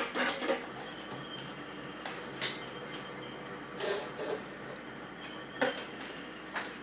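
Paper cups and a ball being played with in a toddler's bowling game: a handful of scattered knocks and clatters a second or two apart.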